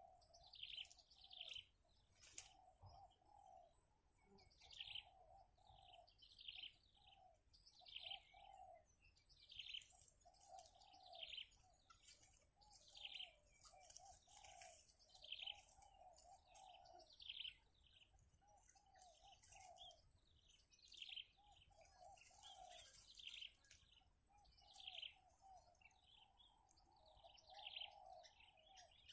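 Faint bird calls: short chirps falling in pitch, repeated about once or twice a second, with lower notes between them, over a steady high-pitched whine.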